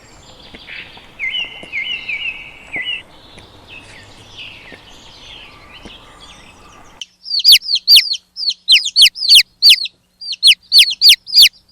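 Birds chirping faintly over a light outdoor hiss, then, about seven seconds in, loud, sharp chirps that sweep down in pitch, about three a second with brief pauses.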